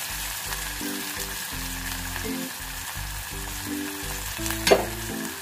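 Chopped onions sizzling as they fry in hot oil, with tempered cumin, curry leaves and green chillies, under background music of steady low notes. One sharp knock stands out near the end.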